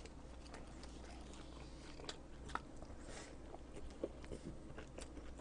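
A person chewing a mouthful of food close to the microphone: faint, soft chewing with scattered small clicks.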